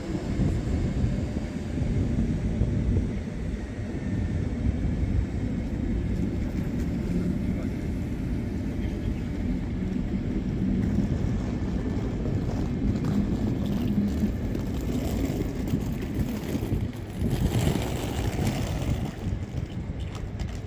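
Steady low rumble of a vehicle in motion, with a brief rise in hiss about three-quarters of the way through.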